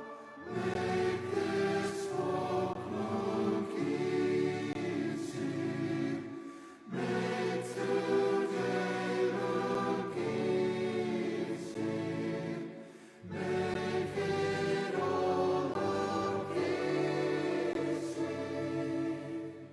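Choral music: many voices holding long sustained chords, in three long phrases with brief breaks between them.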